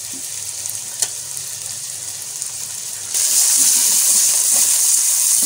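Boiled green peas, green chillies and onion sizzling in oil in a metal pot while being stirred with a silicone spatula. There is a single click about a second in, and about three seconds in the sizzle jumps suddenly louder and higher-pitched.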